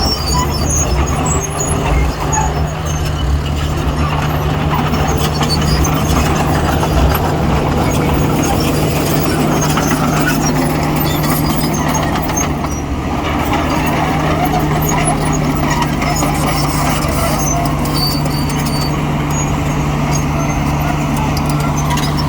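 Heavy diesel earthmoving machinery running steadily, its engine holding one constant low pitch.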